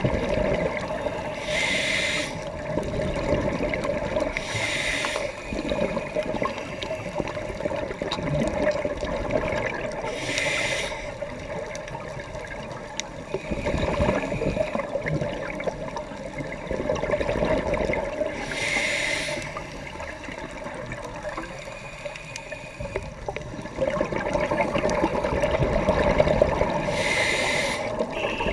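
A scuba diver breathing through a regulator underwater: five short hissing inhalations several seconds apart, with exhaled bubbles rumbling and gurgling in between, heard through the camera's underwater housing.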